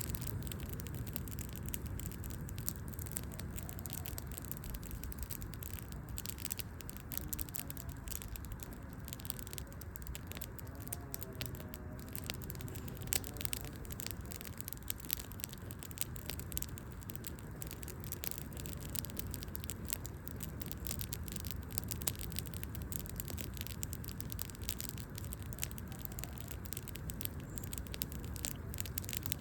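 Wood fire burning, the logs crackling steadily with many quick sharp pops over a low rumble of flames.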